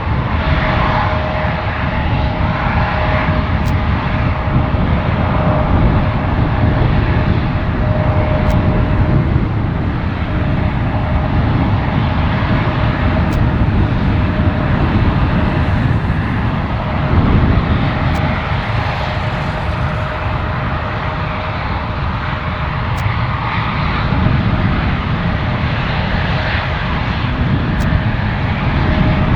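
Boeing 777-300ER's GE90 turbofan engines running, a steady jet noise with a thin, even whine held through it.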